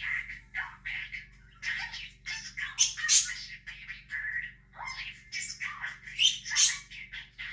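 Budgerigar chattering and warbling in rapid chirps, with louder sharp squawks about three seconds in and again about six seconds in.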